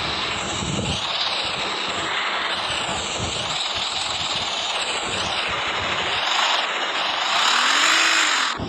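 Tractor engine running, growing louder with a brief rise and fall in pitch near the end.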